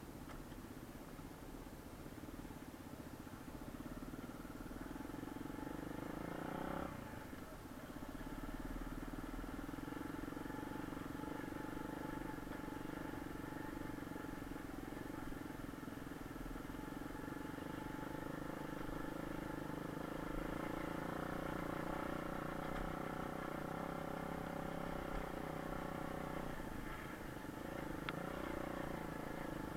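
Pit bike engine running at a steady, fairly even pitch, dipping briefly about seven seconds in and changing pitch again near the end.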